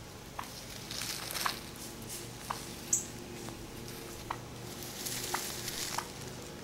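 Turkey hen giving short, sharp clucks, about six spaced irregularly, over faint rustling.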